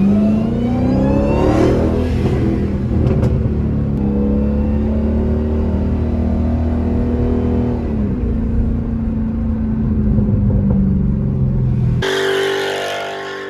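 Dodge Hellcat's supercharged 6.2-litre V8 revving up over the first couple of seconds, then running at a steady high engine note that drops slightly about eight seconds in. It cuts off abruptly about twelve seconds in, and music follows.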